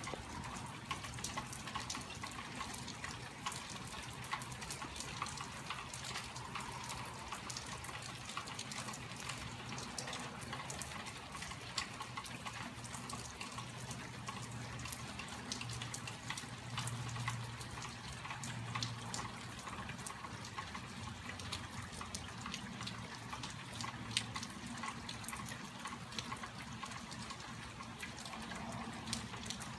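Steady rain falling and dripping: a dense patter of drops, with a low hum underneath.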